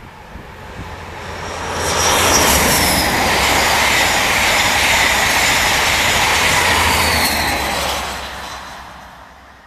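InterCity 125 high-speed diesel train passing at speed: the rush and rumble of wheels on rail builds over the first two seconds, holds loud and steady, then fades near the end. A high whine drops in pitch about two seconds in and again near seven seconds.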